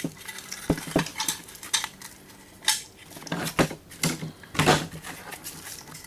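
Metal parts and tools clinking and knocking irregularly as a coffee grinder is taken apart by hand for scrap.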